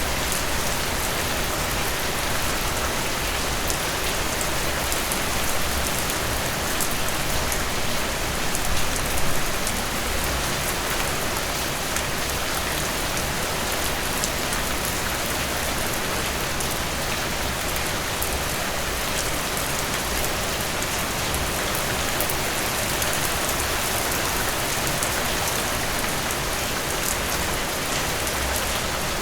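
Heavy rain falling steadily on a surface, a dense even patter of drops, swelling slightly about nine seconds in.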